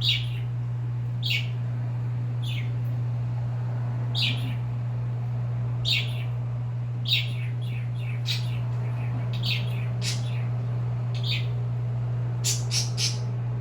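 Pet birds chirping: short, high, falling chirps about once every second or so, with a quicker run of three chirps near the end, over a steady low hum.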